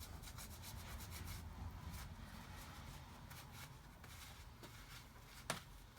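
Cloth rubbing excess wax off a freshly waxed metal fitting in quick strokes, dying away about a second and a half in. A single sharp click near the end.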